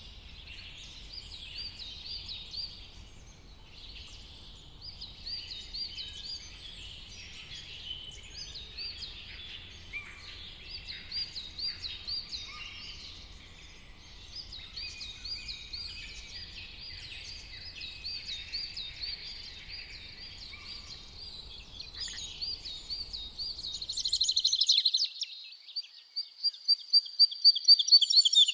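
Several forest songbirds singing at once, many short chirps and repeated phrases overlapping, over a faint low background rumble. About 24 seconds in, the rumble stops abruptly and a louder bird's rapid trilling, repeated notes take over.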